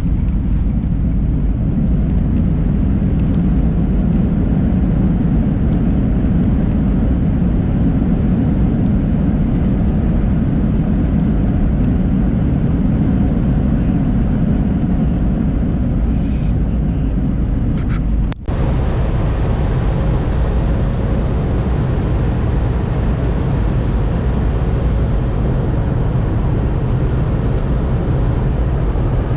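Steady rumble of an airliner heard from inside the passenger cabin: engine and airflow noise. About 18 seconds in it drops out for an instant and then goes on with a slightly brighter tone.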